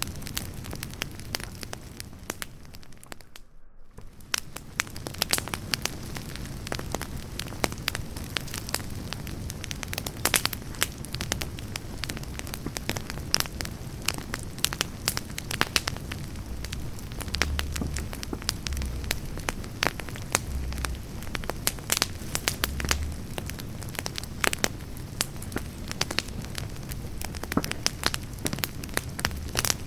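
Split-firewood campfire burning, with steady crackling and frequent sharp pops and snaps. The sound drops out briefly about three seconds in, and a few low thuds come in the middle.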